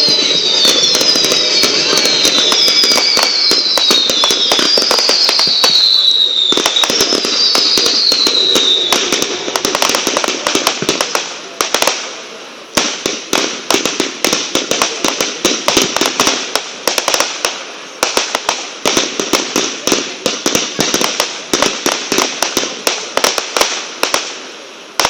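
Fireworks going off: about five falling whistles over a dense wash of bursts for the first nine seconds, then a rapid string of crackling pops and bangs.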